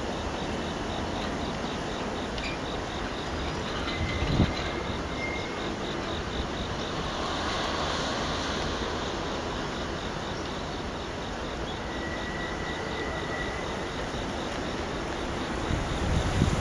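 Freight train rolling through a rail yard, a steady rumble, with insects chirping in an even, rapid pulse over it.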